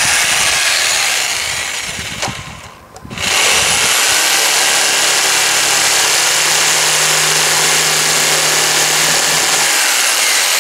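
Power tool running hard in two stretches, with a brief pause about three seconds in, as it cuts the top out of a plastic HDPE barrel.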